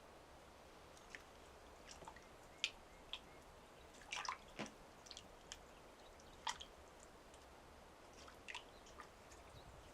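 Scattered faint clicks and light taps in a quiet room, like small objects being handled, with the loudest group of taps about halfway through.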